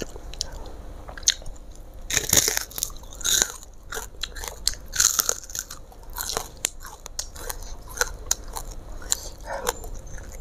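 Close-miked chewing with crisp crunching, in repeated bites and chews, the loudest crunches a couple of seconds in, around three and a half seconds and around five seconds.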